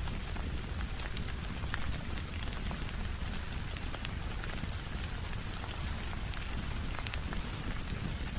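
Steady rain on a window, layered with the crackle of a wood fire: scattered sharp clicks and pops over an even hiss and a low rumble.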